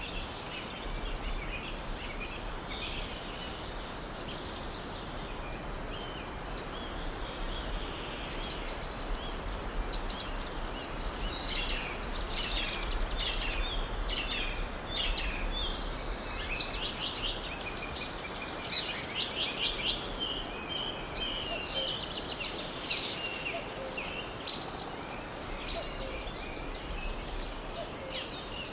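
Forest ambience: several birds singing and chirping, with many short calls and trills overlapping, over a steady background hiss.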